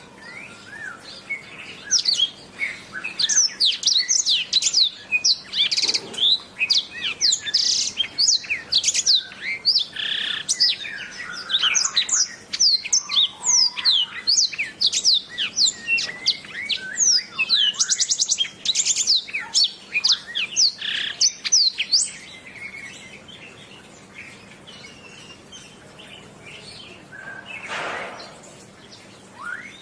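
Domestic canary singing a long, fast song of rapid rising and falling whistles and trills, which breaks off about 22 seconds in, leaving only faint scattered chirps. A short soft noise comes near the end.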